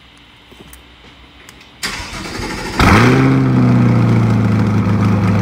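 2021 C8 Corvette's 6.2-litre LT2 V8 cold-starting through a straight-pipe cat-back exhaust. About two seconds in the starter cranks for about a second. The engine then catches with a loud flare and settles into a steady fast idle.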